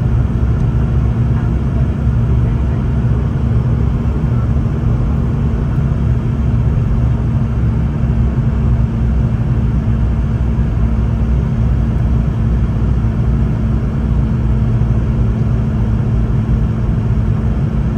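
Steady cabin noise inside a Boeing 717-200 on final approach: the rumble of its rear-mounted Rolls-Royce BR715 turbofans and the airflow, with a steady low hum over it.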